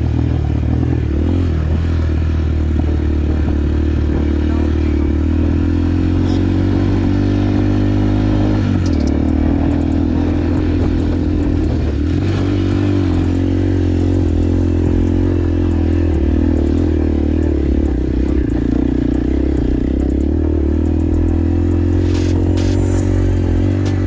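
Motorcycle engine running steadily while riding, its pitch shifting slightly a few times, with a few light clatters.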